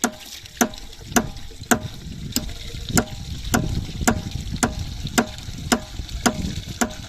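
Rhythmic metallic clanks about twice a second, each with a short ring, over a steady low rushing, water-like noise.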